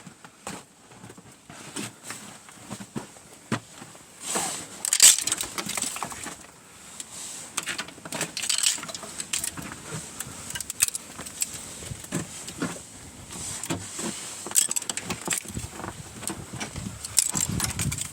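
Icicles being knocked off and breaking, with a string of sharp cracks, taps and bright clinking as pieces of ice hit and shatter; the loudest crack comes about five seconds in.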